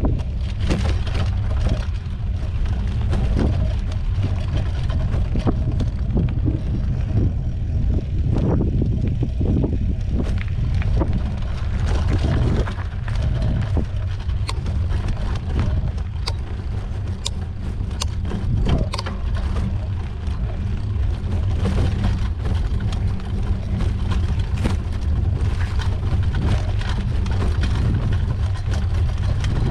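Mountain bike riding over a dirt trail: a steady wind rumble on the microphone, with frequent sharp clicks and rattles from the bike and tyres on the rough ground.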